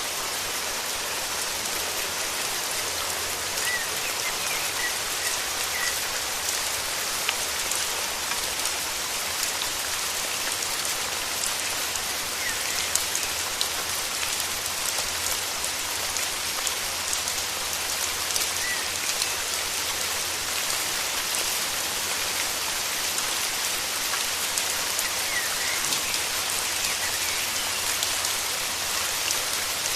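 Steady rain falling, with many separate drops ticking through it. A few faint short bird chirps come through the rain now and then.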